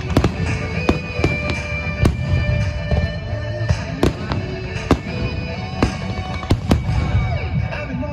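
Aerial fireworks bursting: a string of sharp bangs at irregular intervals, about one or two a second, over music with long held notes.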